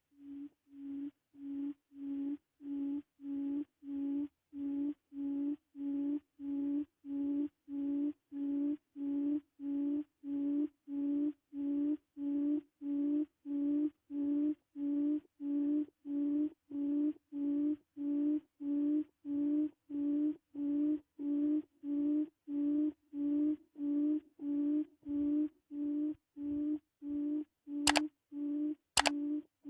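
Low hooting quail call, repeated very evenly about five times every three seconds at one steady pitch. Three sharp clicks near the end.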